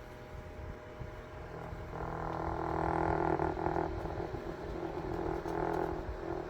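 Small electric motor, such as a mini fan in a homemade air conditioner model, running with a steady hum that grows louder and rougher about two seconds in and eases near the end.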